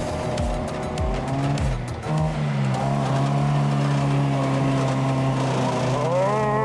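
Classic Lada's four-cylinder engine, running on valves made from old brass coins, pulling as the car drives around on mud, its revs climbing near the end. Background music plays under it.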